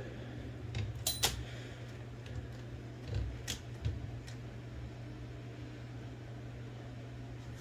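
A few small metallic clicks from bearings and carriage parts of an Olivetti Linea 98 typewriter being handled and fitted, the sharpest a quick double click just over a second in and another single click a couple of seconds later. A steady low hum runs underneath.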